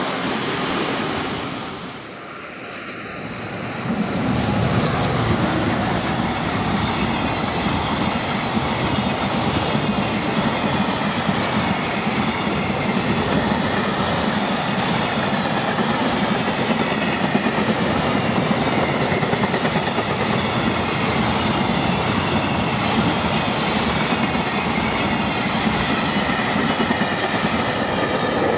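An EF210 electric locomotive hauling a container freight train passes close by. Its wheel and rail noise rises about four seconds in and then holds steady and loud.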